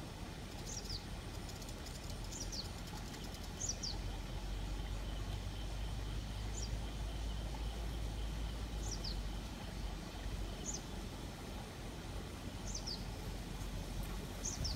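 A bird calling over and over: short, high notes that slide downward, about every two seconds, sometimes two in quick succession. Beneath them runs a steady low outdoor rumble that eases about two-thirds of the way through.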